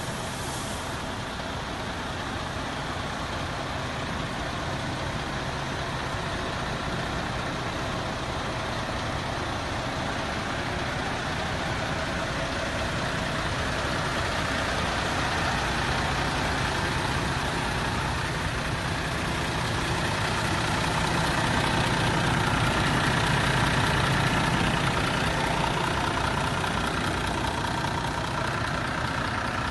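MAN TGX tractor unit's diesel engine idling steadily, growing somewhat louder about twenty seconds in before easing back.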